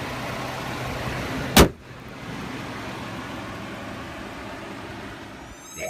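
A Ford F-150's 3.5-liter EcoBoost V6 idling, then a single loud slam about a second and a half in, most likely the hood being shut. After the slam the engine sound continues more muffled and quieter.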